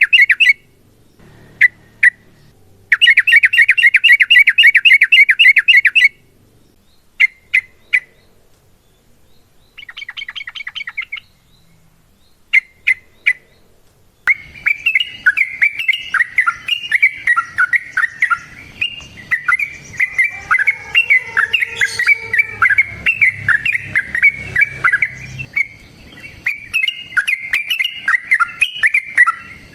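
Yellow-vented bulbul (trucukan) singing loud, fast chattering trills in bursts of a few seconds, broken by short chirps and pauses. From about halfway in it chatters almost without a break, in busier and more varied phrases.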